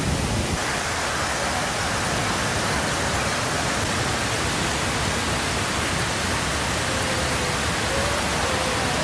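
Steady rushing noise of a waterfall, an even hiss of falling water with no breaks.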